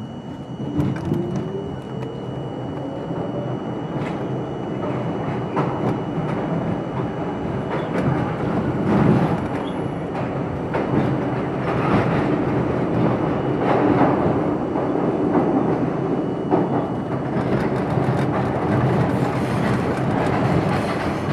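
R42 subway train pulling away and picking up speed. The traction motors whine upward in pitch over the first few seconds, then the wheels run on the rails with irregular clicks over the rail joints, growing steadily louder.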